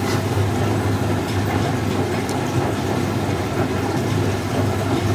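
1965 English Electric Liberator washing machine running: a steady motor hum with mechanical rumble.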